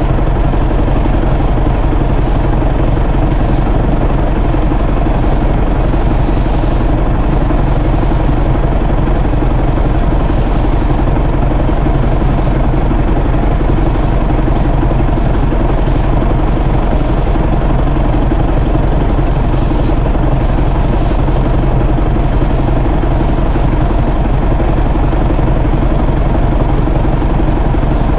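John Deere tractor engine running steadily under load, driving a twine-tied round baler as it picks up Johnson grass hay.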